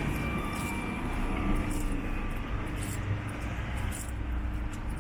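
Passing vehicle: a steady engine hum fades away in the first second, leaving a low, even traffic rumble.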